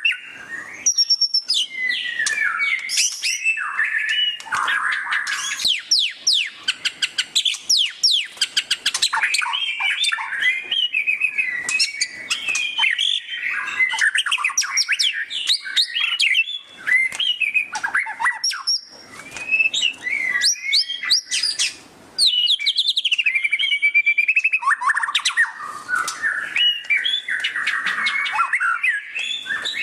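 White-rumped shama (murai batu) singing loudly and almost without pause: a fast, varied stream of whistles, quick up-and-down sweeps and rapid chattering 'ngeriwik' runs, with a couple of brief breaks.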